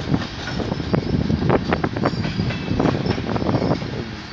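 Tank cars of a freight train rolling past, steel wheels clacking and knocking over the rail joints over a steady rumble, with a faint high wheel squeal about halfway through.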